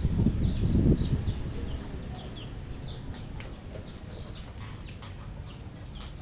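Long-tailed shrike calling: sharp, high notes in quick clusters in the first second, over a low rumble, then fainter short falling chirps repeating.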